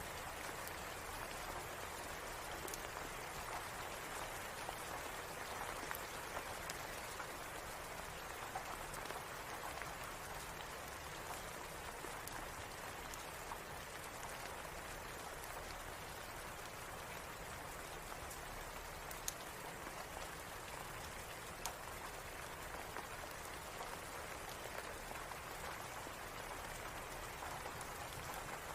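Steady rain, an even hiss of falling drops, with a dozen or so scattered sharp clicks.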